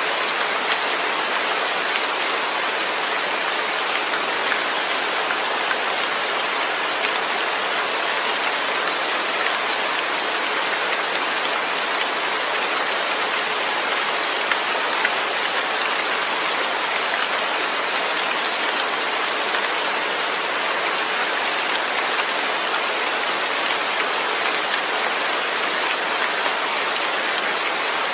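Steady rain: a dense, even hiss of falling drops, with no thunder.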